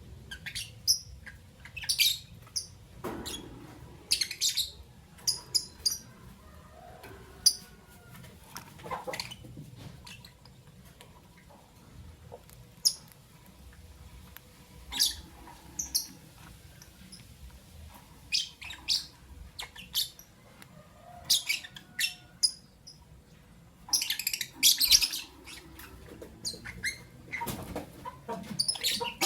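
Lovebirds chirping: short, shrill, high-pitched calls coming singly and in quick irregular clusters, busiest a little before the end.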